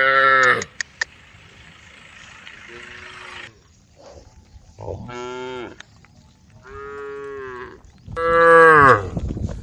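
Cows mooing to the herd, about five separate drawn-out calls, the loudest just at the start and about eight seconds in. Two short clicks sound soon after the first call.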